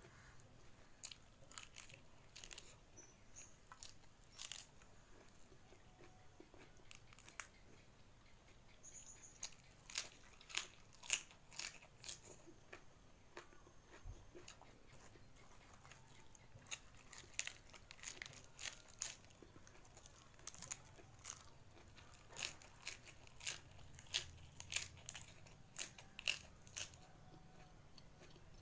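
Close-miked eating sounds: a person chewing a handful of rice wrapped in a raw cabbage leaf, with irregular crisp crunches that come more often in the second half.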